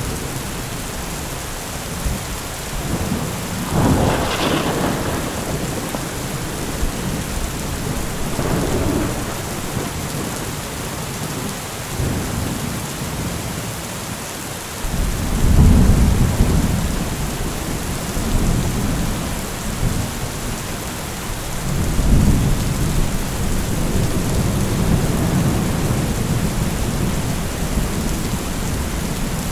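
Heavy rain falling steadily, with thunder. A sharp clap comes about four seconds in and a weaker one around eight seconds. Deep rumbles then start suddenly around fifteen and twenty-two seconds and roll on for several seconds.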